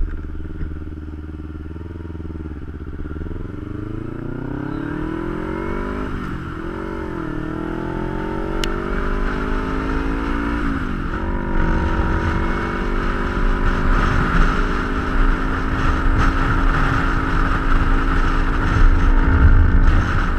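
Kawasaki Ninja 250's parallel-twin engine pulling away and accelerating up through the gears. The revs climb, dip briefly at each of about three gear changes, then settle into a steady cruise, with wind noise growing as speed picks up. A sharp knock comes right at the start.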